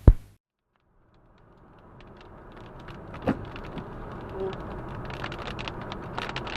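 Car driving on the motorway in a rainstorm: steady road and rain noise fades in after a sharp thump and a second of silence, with a knock about three seconds in and raindrops ticking more and more densely near the end.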